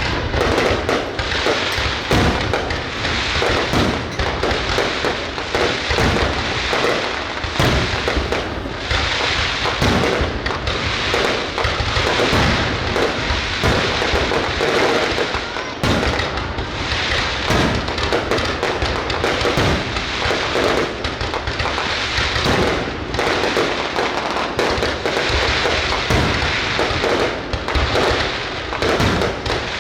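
Fireworks display going off without pause: a dense, continuous crackling and popping, with frequent sharper bangs.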